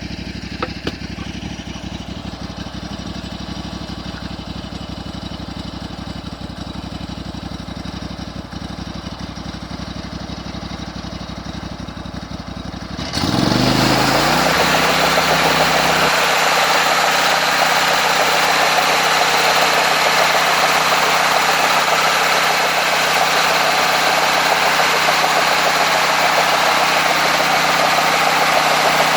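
Homemade sawmill's engine idling steadily, then about 13 seconds in it speeds up: its pitch rises over a couple of seconds and holds, under a loud steady rushing noise as the mill runs at speed.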